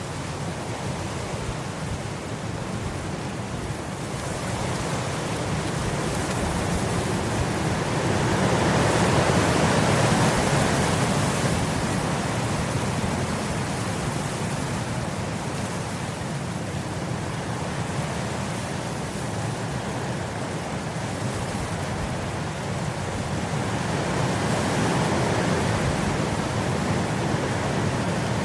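Wind blowing through grass: a steady rushing that swells in a gust about a third of the way in and again near the end.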